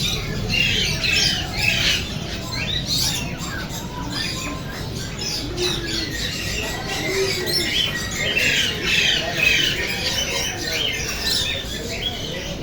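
Several parrots squawking and chattering, many short calls overlapping without a break.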